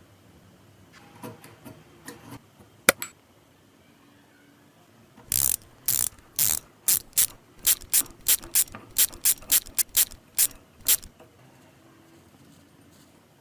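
Mechanical clicking and knocking from a metal mechanism being worked by hand. A few light clicks and one sharp knock come first. From about five seconds in there is a run of about sixteen short strokes that quicken to about two a second and stop near the end.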